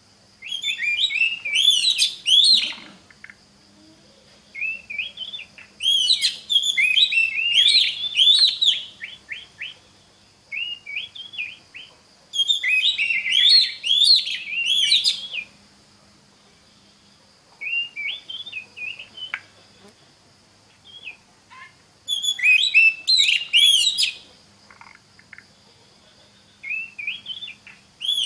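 Oriental magpie-robin (kacer) singing: bursts of rapid, varied whistled phrases, each lasting a second to a few seconds, with short pauses between them.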